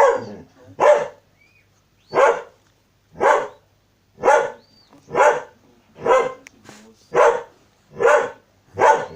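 A sheepdog barking steadily, about one bark a second, nine barks in a row.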